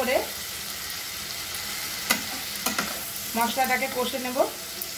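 Onion, ginger-garlic paste and ground spices sizzling in hot oil while a spatula stirs them, knocking against the pan a couple of times. This is the masala being sautéed until it is almost cooked.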